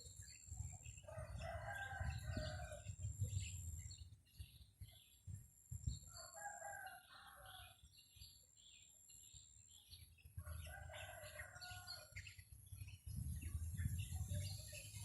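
Junglefowl rooster crowing three times, each crow about two seconds long and a few seconds apart, over the low rumble of strong wind on the microphone.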